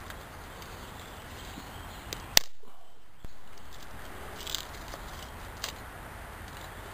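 Small wood campfire crackling, with scattered sharp pops; the loudest pop comes about two and a half seconds in, and the sound briefly drops out just after it.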